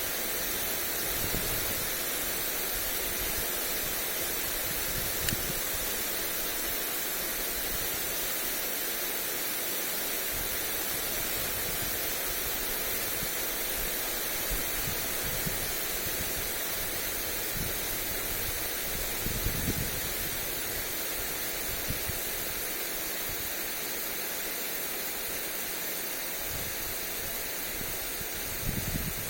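Lawn sprinkler spraying water onto grass: a steady, even hiss. A few brief low rumbles of wind on the microphone, one about two-thirds of the way through and one near the end.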